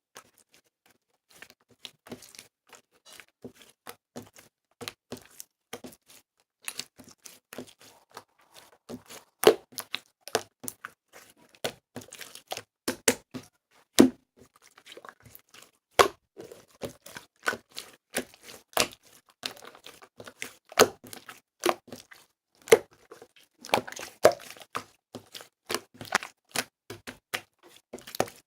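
Irregular series of sharp clicks and taps, a few a second and uneven in loudness, growing busier near the end.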